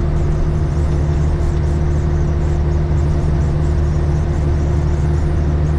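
Caterpillar 3406E inline-six diesel of a Freightliner FLD120 running steadily at highway speed, heard inside the cab as an even drone over tyre and road noise.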